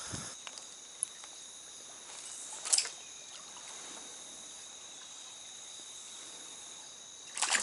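Steady high chirring of insects over the faint run of a stream, with a brief rustle about three seconds in. Near the end a splash starts up as a hooked trout thrashes at the surface.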